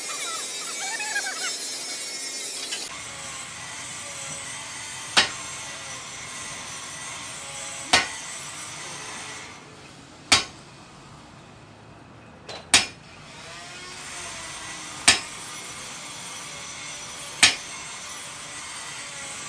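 About three seconds of a high, hissing tool noise such as sawing or grinding, which cuts off abruptly. Then single sharp hammer blows on metal follow at an even pace, about one every two and a half seconds, each with a short ring.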